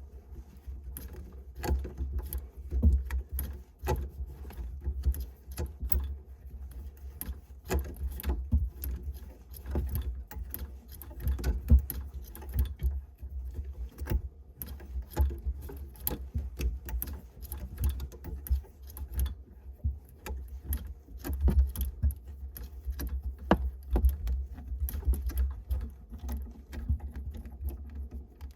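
Irregular clicking, tapping and clattering of hand tools and metal faucet fittings being handled during washbasin faucet replacement work, with dull low thumps among them.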